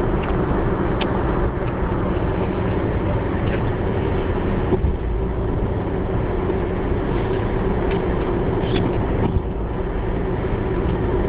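Car driving, with steady engine and road noise heard from inside the cabin.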